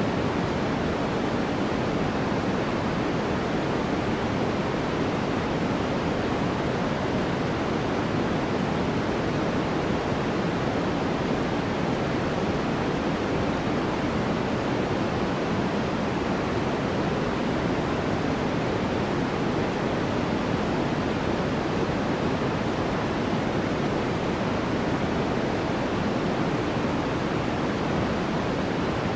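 Steady, unchanging white noise: an even hiss with more weight in the low end than a bright hiss, with no breaks or changes.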